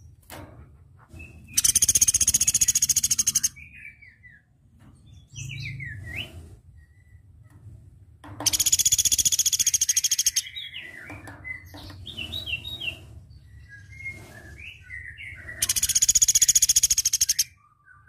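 Velvet-fronted nuthatch singing: three loud, very fast, high trills of about two seconds each, several seconds apart. Softer short chirps and falling notes come between them.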